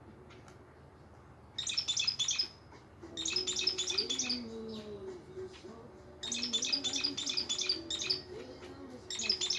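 Budgerigar chirping in quick bursts of rapid high twitters, four bursts with short pauses between them.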